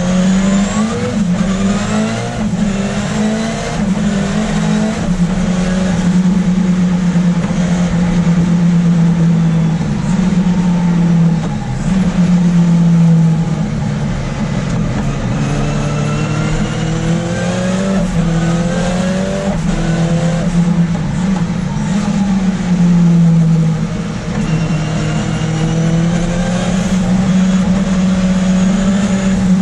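Ford Escort RS Cosworth race car's turbocharged four-cylinder engine heard from inside the car on track, revs climbing hard and dropping back again and again as it is driven through the gears, with brief dips between pulls.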